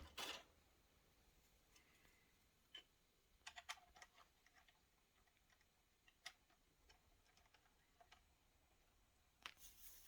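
Near silence with a few faint, scattered clicks and taps: a single click about three seconds in, a short cluster soon after, another near the middle and a few more near the end.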